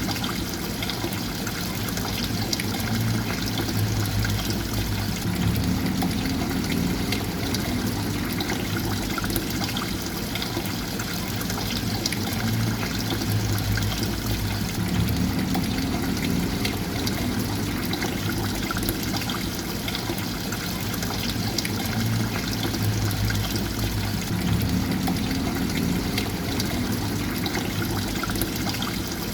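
Running water trickling and pouring steadily, with a low swell that comes back about every ten seconds.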